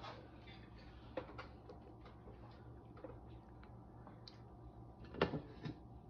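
A few light knocks and clicks of kitchenware being handled at a stove, the loudest knock about five seconds in, over a steady low hum.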